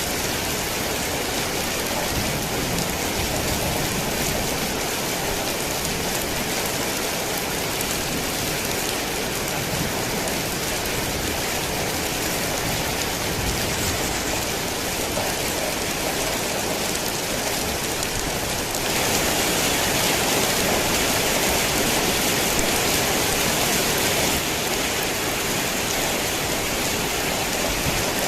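Heavy rain falling steadily in a dense, even hiss. For a few seconds after the middle it turns louder and brighter, then settles back.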